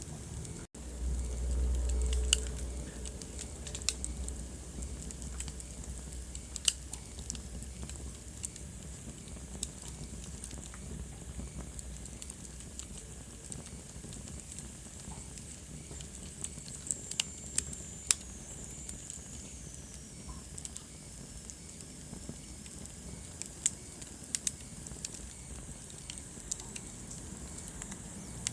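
Wood fire burning in a fireplace, crackling with scattered sharp pops over a low steady rumble. About a second in the sound briefly drops out, then the low rumble swells for a couple of seconds. Later a faint high whistle slides slowly downward.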